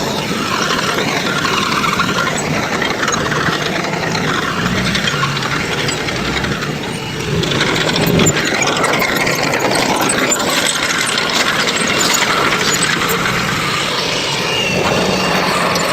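Heavy construction machinery running, a steady engine hum mixed with continual mechanical clanking and rattling. It dips briefly and then grows louder about halfway through.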